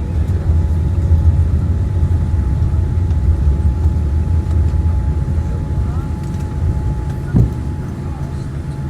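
Cabin noise of a Boeing 787-9 airliner on its landing roll: a deep rumble of engines and wheels that slowly eases off as the aircraft slows, with a steady whine over it and a single thump about seven seconds in.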